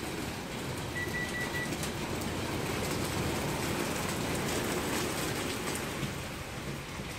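Steady hiss of rain falling outdoors. A short run of high pips sounds about a second in.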